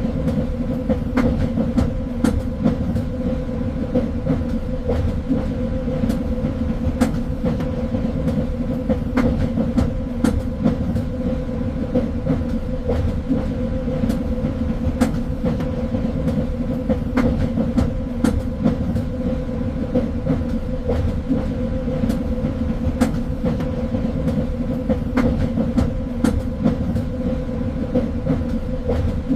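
Train running along the track: a steady low rumble with a constant hum, and scattered clicks and knocks from the wheels and carriage.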